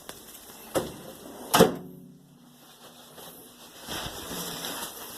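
Kitchenware handled during cooking: a light knock, then a sharp clank of something hard set down that rings briefly as it fades, followed by a steady rustling noise near the end.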